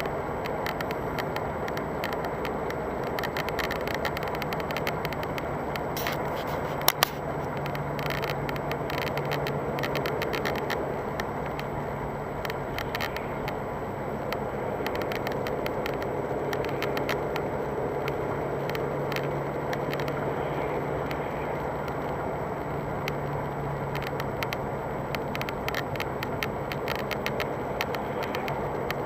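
Car on the move, heard inside the cabin: steady engine and road noise, with the plastic dashboard panel creaking in many irregular crackling clicks. A sharper double click about seven seconds in.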